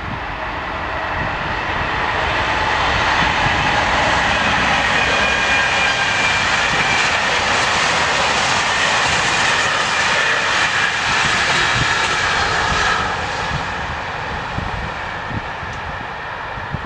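Train passing: a steady rush of wheels on rails and running noise that builds over the first few seconds, holds, then fades from about 13 seconds in, with faint high whining tones in the middle.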